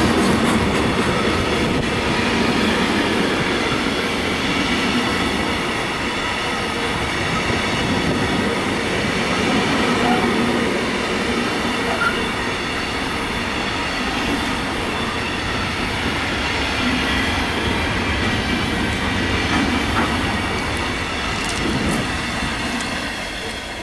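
Container flat wagons of an intermodal freight train passing close by: steady noise of steel wheels running on the rails, with a faint high ringing over it. The noise begins to fall away near the end as the tail of the train passes.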